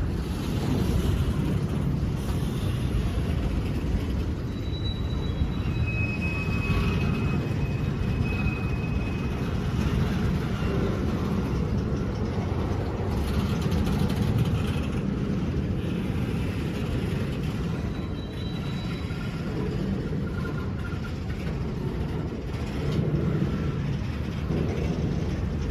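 A train rolling past: a steady low rumble of wheels on rail, with a few brief high-pitched squeals.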